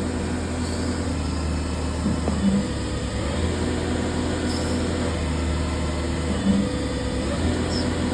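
EMCO Emcoturn 345 CNC lathe running: a steady low machine hum with several steady tones over it, and two brief louder blips, one about two and a half seconds in and one near six and a half seconds.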